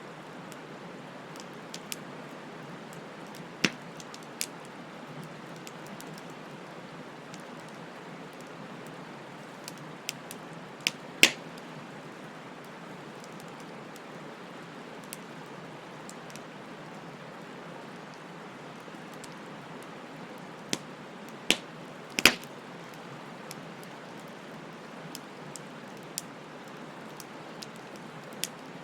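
Bonfire burning: a steady hiss of burning wood with scattered sharp crackles and pops, two of them louder, near the middle and about three-quarters through.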